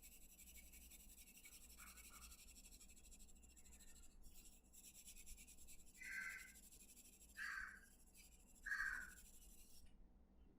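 A crow cawing faintly, three short caws about a second and a half apart near the end, with two weaker calls earlier. Under them runs the soft scratching of a pencil shading on paper.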